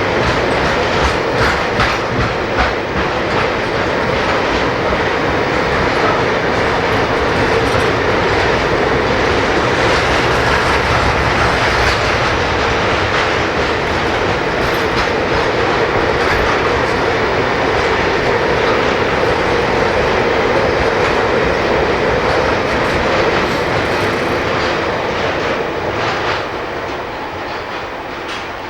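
Freight train running past, its wagon wheels clicking over the rail joints in a steady rolling rumble that eases off near the end.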